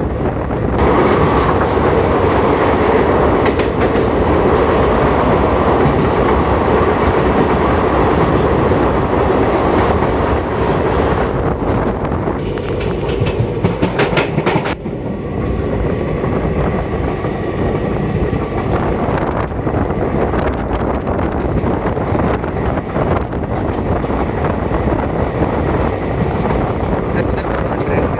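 Passenger train running along the rails, its wheels clattering steadily, with a short run of sharper clacks about halfway through.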